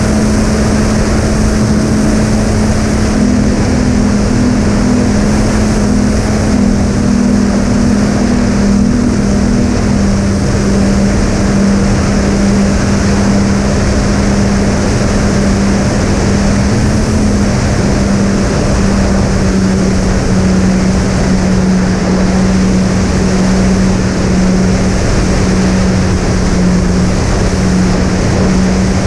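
Twin brushless electric motors with three-blade propellers on a fixed-wing model plane in cruise: a steady hum of two slightly different pitches, one for each motor, under loud wind rush on the microphone.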